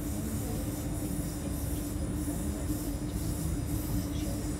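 Electric suburban passenger train running at speed, heard from inside the carriage: a steady rumble of wheels on the rails with a constant low hum.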